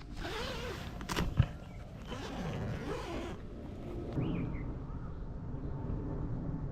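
Rustling and handling noise with one sharp click a little over a second in, then a bird's brief chirp.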